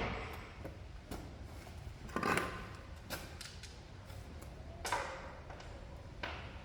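The tail of a pneumatic impact wrench burst dies away, followed by a few faint, scattered clinks and knocks of metal tools and parts being handled over a low steady workshop background.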